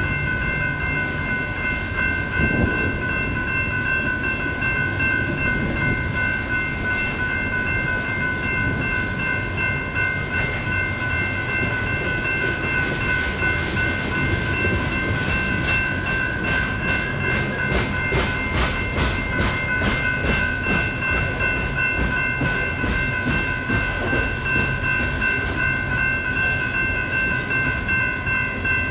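Coal train's hopper cars rolling through a grade crossing, the wheels clicking in a steady, even rhythm over the crossing and rail joints, the clicks thickest through the middle. Throughout, the crossing's electronic bells (an NEG E-Bell and a GS Type 3 E-Bell) ring steadily.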